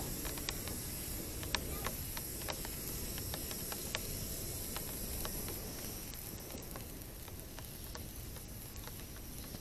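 A wood fire burning on a pallet-wood sign, a steady hiss with scattered sharp crackles and pops, most of them in the first half.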